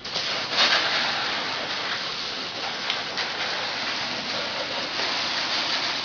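Hose water spraying onto a truck's body as it is rinsed after washing, a steady hiss and patter of water that starts suddenly.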